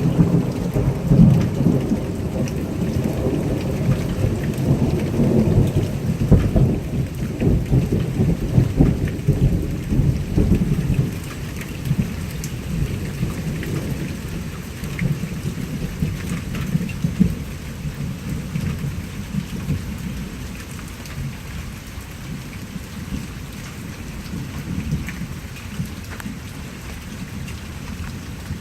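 Rolling thunder rumbling low over steady rain, the rumble fading away over the last third, with close raindrops ticking throughout.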